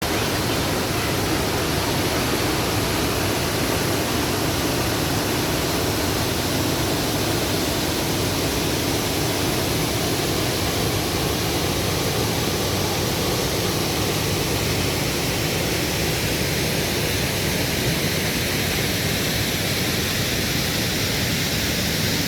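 Waterfall, a steady loud rush of falling water with no breaks.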